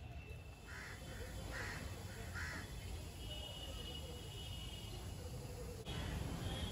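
A bird calls four times in quick succession about a second in, over a steady low background rumble.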